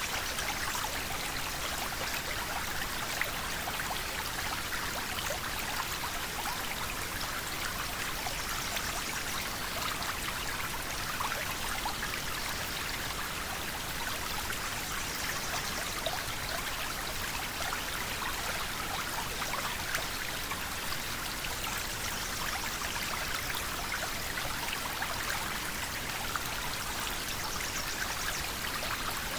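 A river flowing steadily: a constant rushing of water with many small splashes and trickles.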